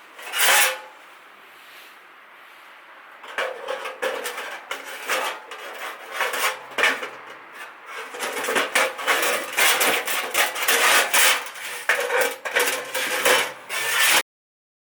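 Steel pieces clanking and scraping together with a metallic ring: one sharp clank at the start, then from about three seconds in a dense, irregular run of knocks that grows louder and stops abruptly.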